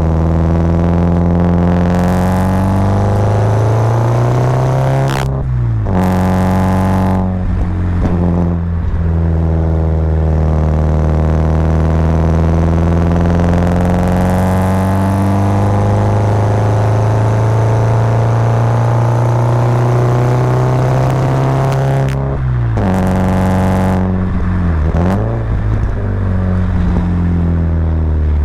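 Subaru Impreza WRX's turbocharged flat-four boxer engine pulling under acceleration, its pitch climbing steadily within each gear and dropping at several gear changes. There are short bursts of hiss around some of the shifts.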